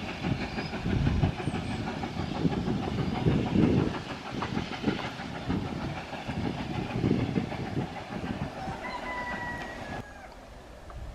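Railway train running in the distance with a rhythmic clatter and a low, uneven rumble; a brief high whistle near the end.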